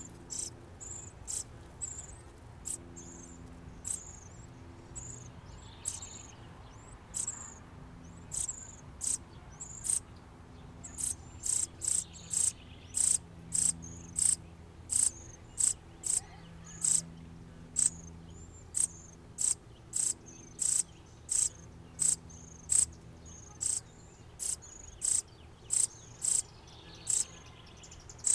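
A bird's sharp, high chip notes, repeated about once a second at first and a little faster in the second half.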